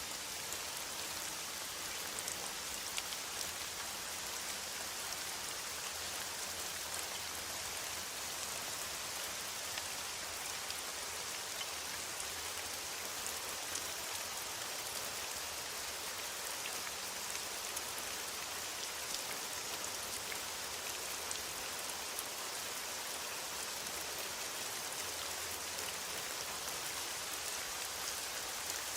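Steady rain falling in a forest, a dense even hiss with many small drops ticking on leaves.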